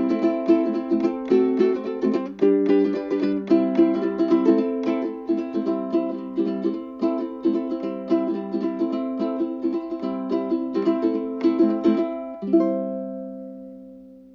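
Ukulele strummed in a steady rhythm, ending about twelve seconds in on a final chord that rings out and fades away.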